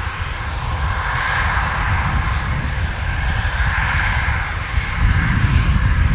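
Fixed-wing aircraft engines running at the airfield: a steady low rumble with a higher whine-like band above it, the rumble growing louder about five seconds in.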